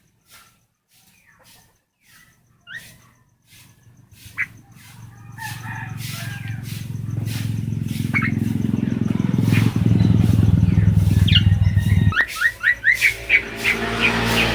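A pet bird chirping in short, upward-sliding notes, sparse at first, then a quick run of about six chirps near the end. A low rumble builds up under it from about a third of the way in and stops abruptly shortly before the chirp run.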